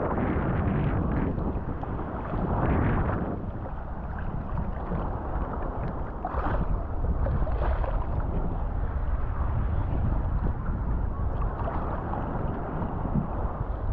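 Wind buffeting the microphone over the sound of the sea and surf, a steady rumbling noise that swells briefly a few times.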